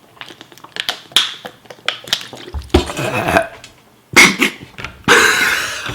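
Mouth and breathing noises of a man eating extremely spicy ramen. There are small clicks and smacks of eating at first, then a few hard, noisy breaths, ending with a long hissing breath near the end, a reaction to the burning heat.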